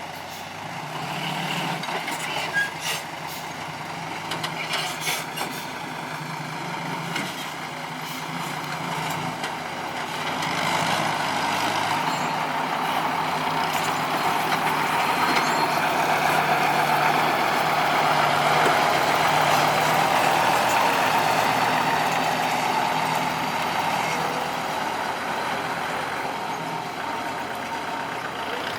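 Heavy diesel earthmoving machinery, an excavator and dump truck, running and working. A few sharp clanks come in the first several seconds. The engine noise swells about a third of the way in, is loudest past the middle, then eases slightly.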